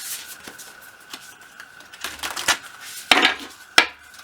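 A deck of tarot cards being shuffled and handled: bursts of quick clicks and rustles, loudest a little after three seconds in, with one sharp click near the end.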